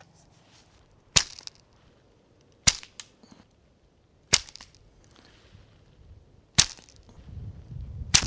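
Five sharp knocks, roughly one every one and a half to two seconds, each followed by a brief rattle of smaller clicks, with a low rumble of handling near the end.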